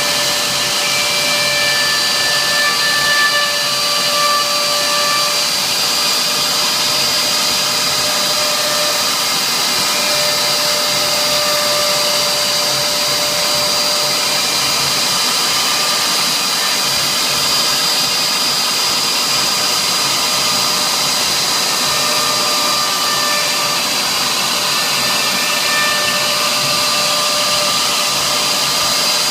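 CNC router spindle running, engraving wood: a steady whine with a high tone over a constant rush of noise, and fainter lower tones that come and go.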